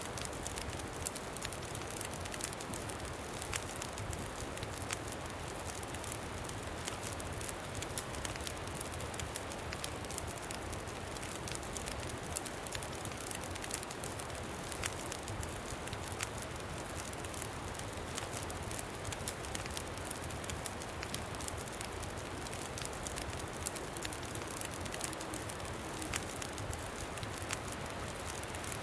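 Campfire crackling with frequent small, sharp pops over a steady rush of wind.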